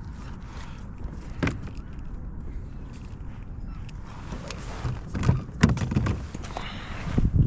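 Handling sounds on a kayak: scattered knocks and thuds with rustling, the loudest knocks between about five and seven seconds in, over a low rumble of wind on the microphone.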